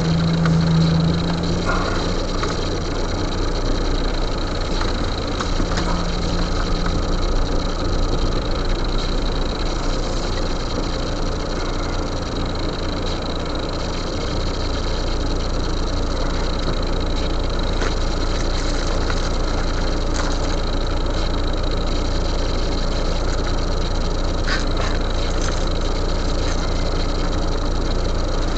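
Car engine running inside the cabin, heard through a dashcam, idling and moving off slowly, with a steady even noise throughout. A brief low hum sounds near the start and again about six seconds in.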